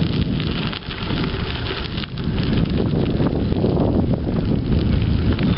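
Wind buffeting the microphone of a camera carried on a moving bicycle: a loud, steady rumbling rush with crackle through it.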